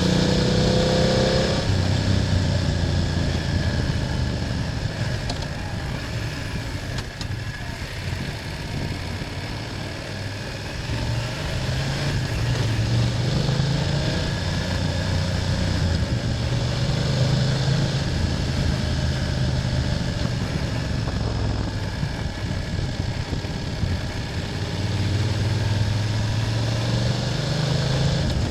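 BMW F800GS motorcycle's parallel-twin engine running under way, its note rising and falling with the throttle: a climb at the start, a drop, then several more rises and falls. Steady wind and road rush over it.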